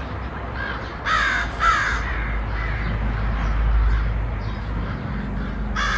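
Birds in the tree calling: a run of harsh calls about a second in and another starting near the end, over a steady low rumble.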